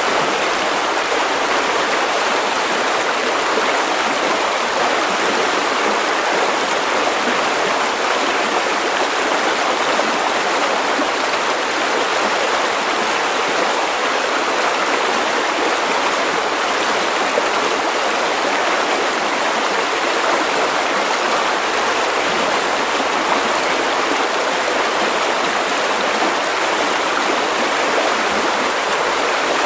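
River water rushing steadily over stones, a continuous even babble with no pauses.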